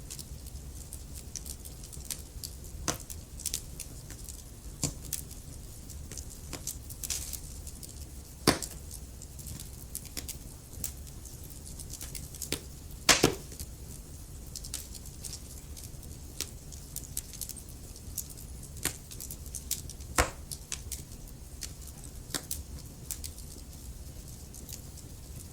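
Wood fire crackling in a fireplace: irregular sharp pops and snaps from burning logs over a low steady rumble of the flames. The loudest pops come about a third of the way in, near the middle, and about three quarters through.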